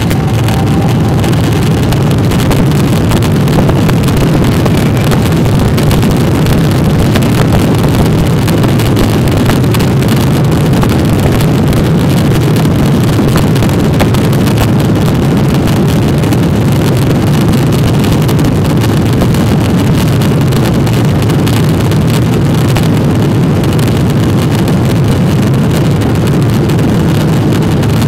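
Airliner engines running at takeoff power, heard from inside the cabin as loud, steady low-pitched noise.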